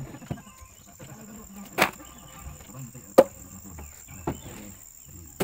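Sharp wooden knocks, four of them about a second apart with the second the loudest, as firewood is handled or chopped. A steady high insect trill runs underneath.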